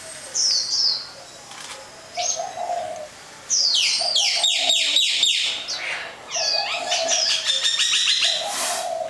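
Songbird singing and chirping: repeated high falling whistles, with a fast run of quick notes about halfway through.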